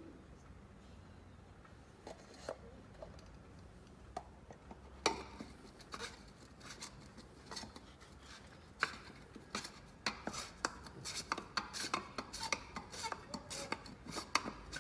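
Irregular clicking and light clattering of work on the car: a few clicks at first, then a quick run of them from about ten seconds in.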